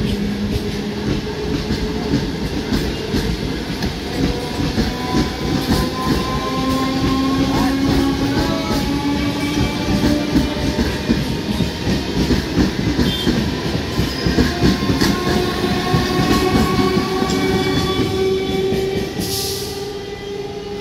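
Electric suburban local train (EMU) running past close by: wheels clattering over the rail joints in quick clicks, under a faint whine from the traction motors that climbs slowly in pitch.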